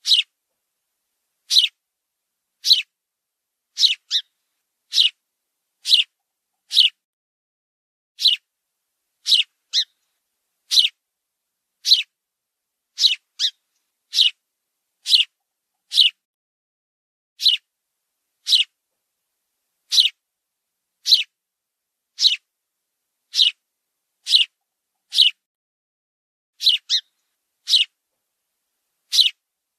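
A bird giving a short, high, falling call over and over, about once a second, sometimes two in quick succession.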